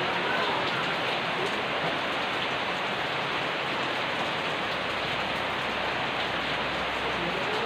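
Steady rainfall, a dense even hiss of rain falling on surfaces, with no let-up.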